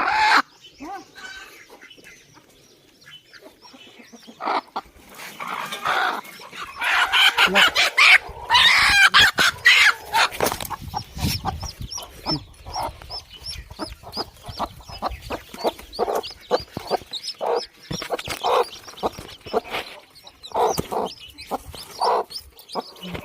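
Chickens clucking and calling, with a loud stretch of drawn-out calls about five seconds in, then a steady run of short clucks mixed with high chick peeps.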